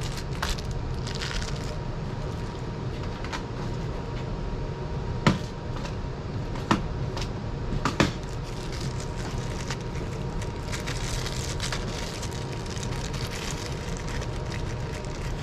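Small metal hardware (washers, nuts and screws) being sorted and handled: three sharp clicks a second or so apart midway through, with softer ticks, over a steady low hum.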